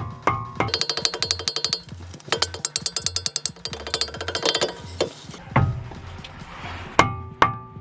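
Ratchet wrench clicking rapidly in two runs, working a suspension bolt on the lower control arm, followed by two sharp ringing metal clinks near the end.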